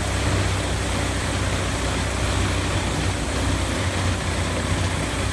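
Large whole tree wood chipper running steadily, a low, even mechanical drone with no separate knocks or bangs.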